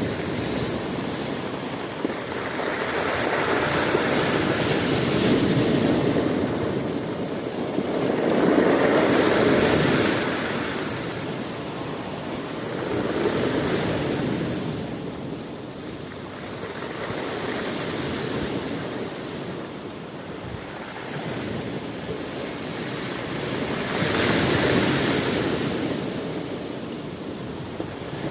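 Ocean surf: waves breaking and washing in, the rush of water swelling and ebbing in slow surges a few seconds apart.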